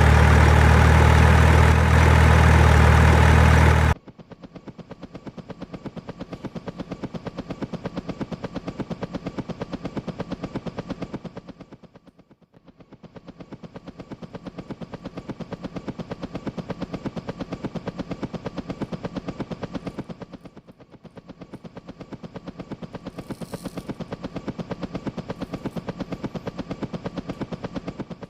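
Toy dump truck: a loud, steady, low engine-like hum that cuts off abruptly about four seconds in, followed by a fast, even clicking rattle that swells and fades in three runs.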